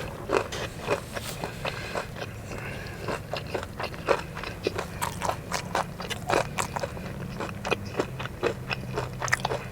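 Close-up chewing of a crispy fried chicken tender: many short, irregular crunches of the breaded crust.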